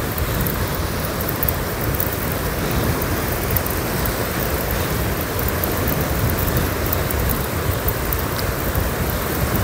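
Steady rain, with a low rumble underneath.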